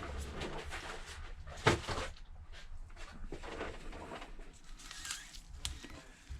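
Old adhesive being scraped off the edges of an iPhone XS Max: irregular scratchy strokes, with one sharper, louder scrape nearly two seconds in.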